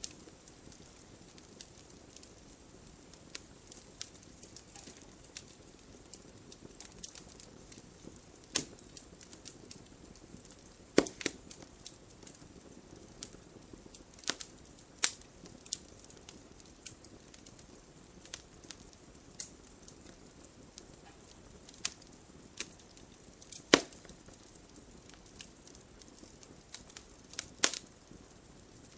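Wood fire crackling: sharp pops and snaps at irregular intervals over a low steady hiss, with a few louder cracks, the loudest about two thirds of the way in.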